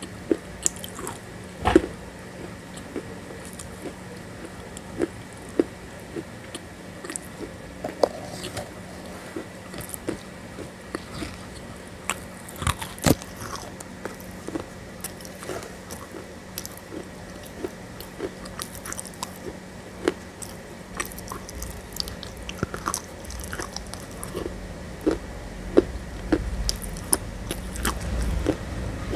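Mouth sounds of biting and chewing a thick grey paste: irregular short clicks and crackles, with a low rumble building near the end.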